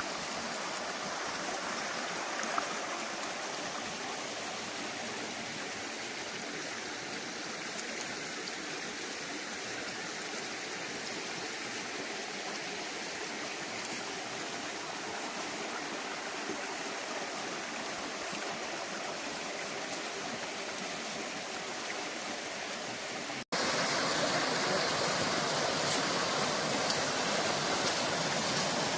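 Steady rush of water from the Rufabgo mountain stream and its waterfalls. About 23 seconds in the sound breaks off for an instant and comes back louder.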